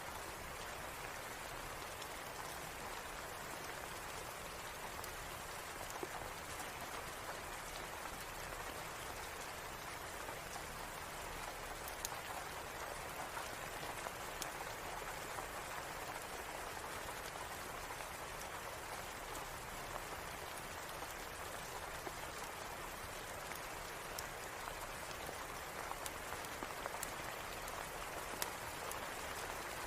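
Steady rain, an even hiss, with scattered sharp ticks throughout.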